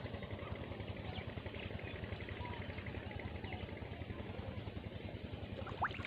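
An engine running steadily with a fast, even putter, with faint bird chirps over it and one quick rising chirp near the end.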